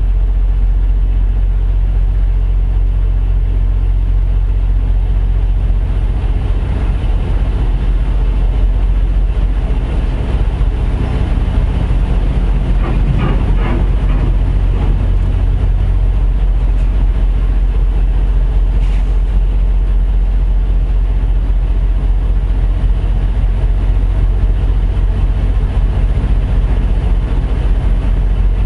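Heavy truck's diesel engine running steadily at low revs, with a brief rise in the middle about halfway through.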